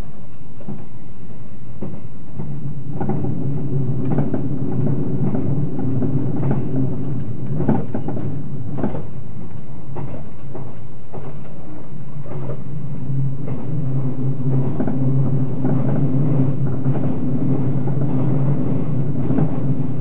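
Cabin running noise of a JR 381-series limited express train on the move: a steady rumble with a low hum, and irregular clacks of the wheels over rail joints. The hum grows stronger about two-thirds of the way through.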